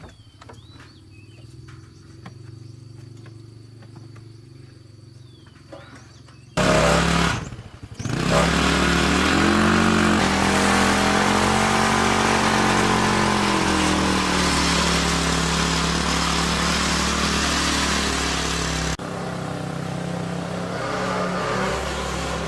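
A motor vehicle engine running. It is faint at first, then suddenly much louder about six and a half seconds in. Its pitch rises slightly and settles into a steady run, and the level drops abruptly near the end.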